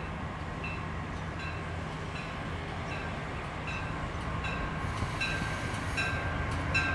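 Approaching passenger train led by a locomotive: a steady low rumble with regular clicks of wheels over rail joints. The clicks come faster and louder over the last couple of seconds as the train nears.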